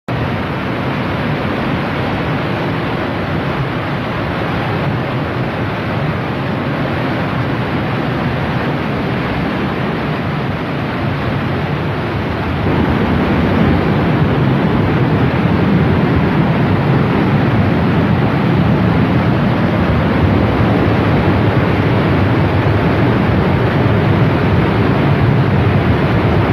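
Floodwater rushing down a mountain stream channel (nala): a steady, loud rush that grows louder about halfway through.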